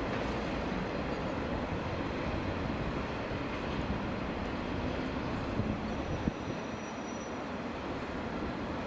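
Freight train running on the track, a steady rolling rumble with a few sharp wheel clicks about six seconds in.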